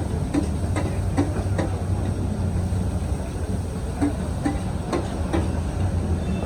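Steady low engine-like rumble with light, regular clicks about two to three times a second.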